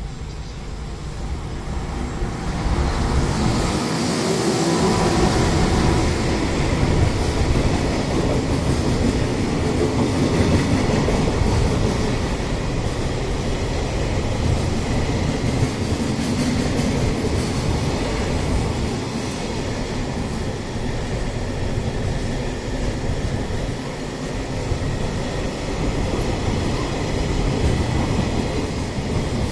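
A JR Freight EF210 electric locomotive hauls a freight train past, then a long string of wagons rolls by with wheels clattering on the rail joints. The noise builds over the first few seconds and stays loud.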